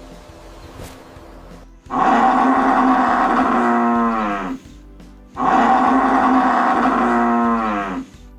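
A cow mooing twice, each a long loud call of about two and a half seconds whose pitch drops at the end, the first starting about two seconds in.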